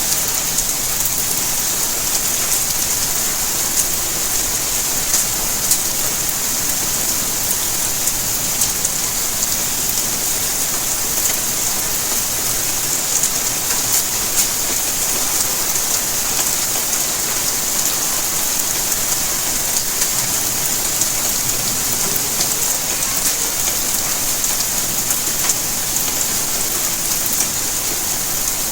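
Steady rainfall, an even hiss with many individual drops ticking on surfaces throughout.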